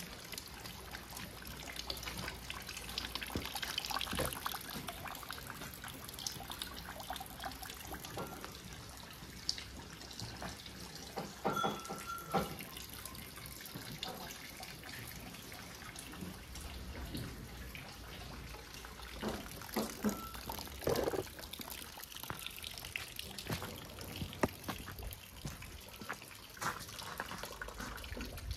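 Rain falling, with water dripping and trickling amid many small drips.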